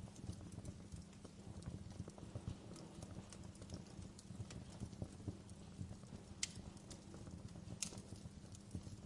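Wood fire crackling in a fireplace, a steady run of small snaps and pops with two sharper pops about two-thirds of the way through, over a low steady rumble.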